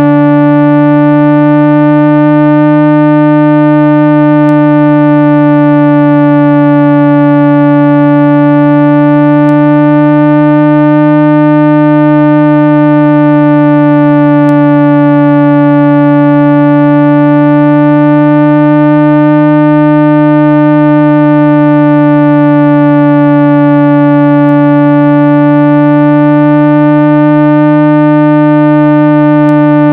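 Steady, loud 165 Hz electronic tone with a buzzy stack of overtones, played without a break. This is a speaker-cleaning tone meant to vibrate dust and debris out of a phone or earbud speaker grille. Its upper overtones waver slowly, about every eight seconds.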